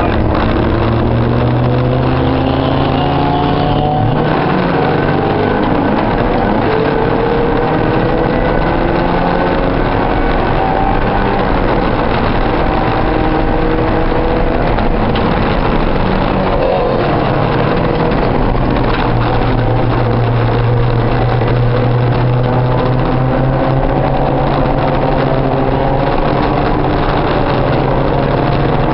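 Porsche 944 race car's 2.5-litre four-cylinder engine heard from inside the cabin under racing acceleration, its pitch climbing and dropping back at each upshift, with road and wind noise underneath.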